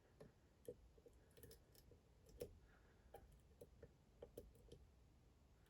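Faint, irregular small metallic clicks and ticks of a lock pick working pins in a Dom IX Twinstar dimple lock cylinder, a couple of dozen light taps spread unevenly.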